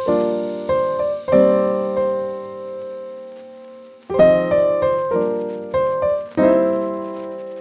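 Background piano music: slow chords struck in clusters, each left to ring and fade, with a quieter stretch in the middle.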